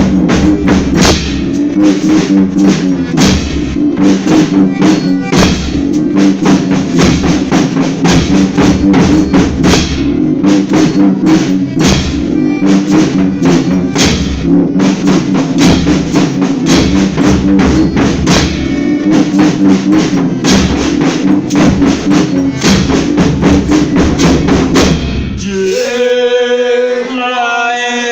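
Folia folk band playing an instrumental passage: steady, fast drum beats over held instrumental notes. About three seconds before the end the drums stop and voices begin singing.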